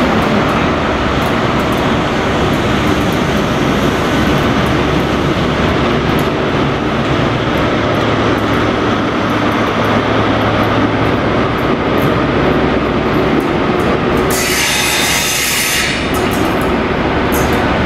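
Loud diesel train running, with a steady low engine drone over rumbling rail noise. A burst of hiss lasts about a second and a half, some three-quarters of the way in.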